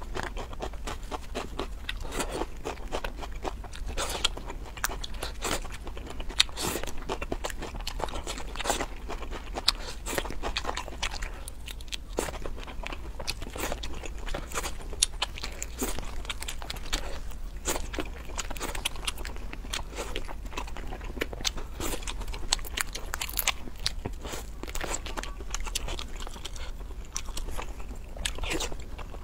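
Close-miked eating of braised seafood (crayfish, squid and century egg): steady wet biting and chewing with many sharp clicks and crunches, and crayfish shell being pulled apart by hand, over a low steady hum.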